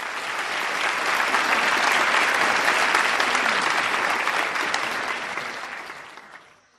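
Audience applauding, swelling over the first couple of seconds and then fading away near the end.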